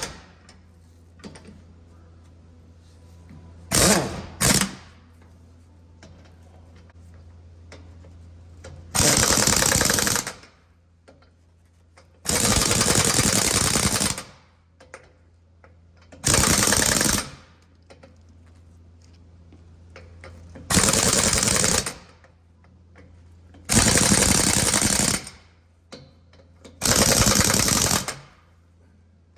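A 1-inch pneumatic impact wrench hammering lug nuts tight on a dump truck wheel: two short blips, then six bursts of one to two seconds each, with pauses between. A steady low hum runs underneath.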